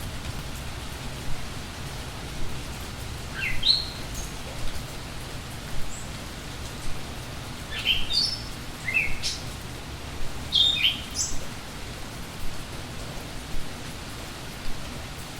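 Steady rain falling, with a songbird chirping in three short bursts of quick, sliding high notes: about three seconds in, around eight to nine seconds, and around ten to eleven seconds.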